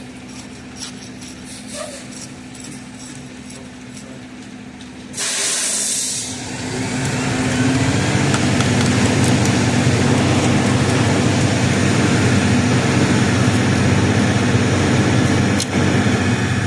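A heavy truck's diesel engine idling, then a short, loud blast of air hiss about five seconds in, like an air brake being released. After that the engine revs up and runs loud and steady.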